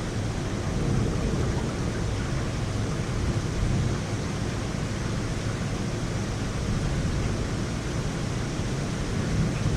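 Heavy rain pouring down steadily during a thunderstorm, an even rushing noise with no let-up.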